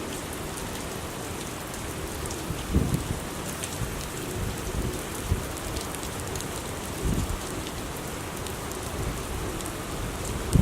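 Heavy rain pouring steadily, with a few dull low thumps now and then.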